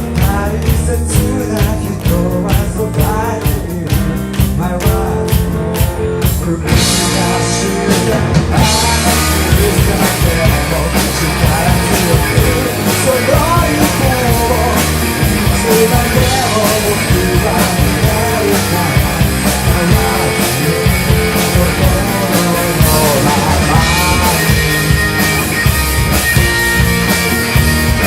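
Rock band playing with drum kit and singing; the arrangement fills out about seven seconds in.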